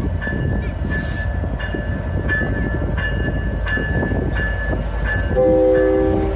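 Canadian Pacific Holiday Train rumbling by while a bell dings about one and a half times a second. Near the end the locomotive horn sounds one chord for about a second, the loudest sound.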